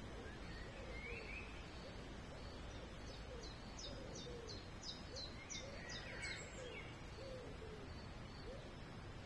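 Birds calling: a series of short low notes repeated about every half second, with a high trill of quick repeated notes in the middle and a few brief chirps. Steady faint background hiss.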